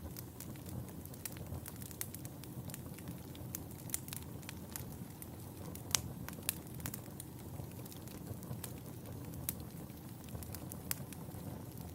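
Wood fire burning in a fireplace: a steady low rumble with frequent sharp, irregular crackles and pops, the loudest pop about halfway through.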